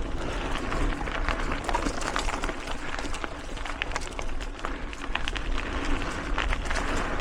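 Mountain bike riding fast down dirt singletrack strewn with acorns: tyres rolling over the ground with frequent short rattles and clicks from the bike, over a steady low wind rumble on the microphone.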